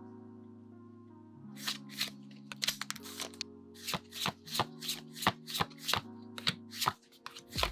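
Pokémon trading cards being flicked one after another from the front of the stack to the back, each giving a crisp snap, about three a second from a second and a half in. Background music with held notes plays throughout.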